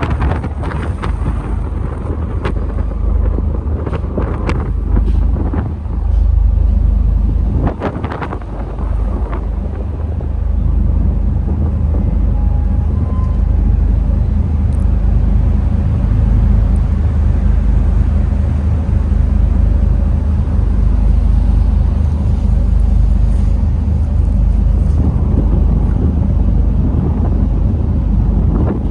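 Steady low rumble of the passenger ferry Sea Paseo 2 under way, with wind buffeting the microphone in gusts that are heavier in the first ten seconds.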